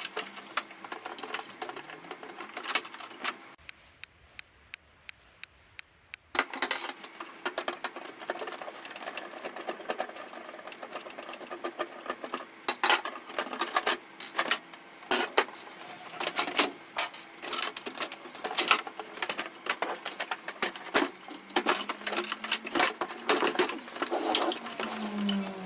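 Irregular sharp clicks and clatter of printer parts being handled, with a quieter stretch of evenly spaced ticks early on and a brief low hum near the end.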